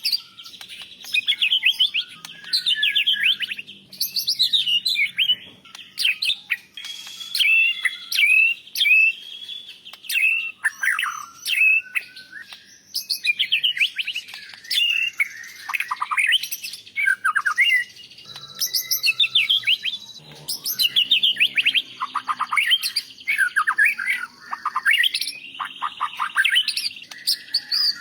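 White-rumped shama (murai batu) singing: a continuous run of high, fast trills and slurred whistles in short phrases, one after another with brief pauses between them.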